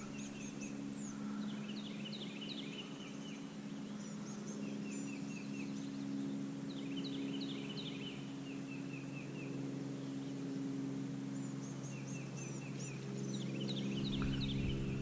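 Bird singing in short phrases of quick rising chirps and trills, repeated about every five to six seconds, over a steady low hum.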